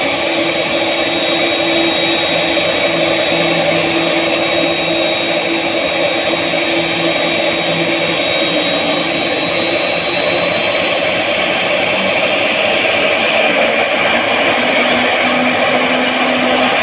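Jet airliner's engines running with a steady rushing noise and a high thin whine that slowly creeps up in pitch in the second half.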